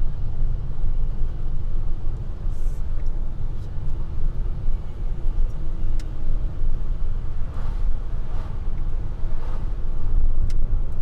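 Steady low rumble of road and engine noise inside the cabin of a moving Opel Corsa with a 1.2-litre engine.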